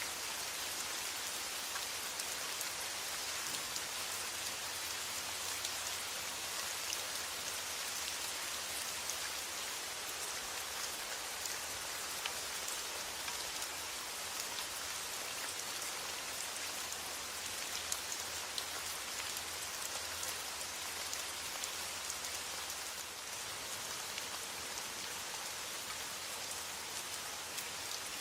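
Steady rain falling: an even hiss of rain with many tiny drop ticks through it, unchanging throughout.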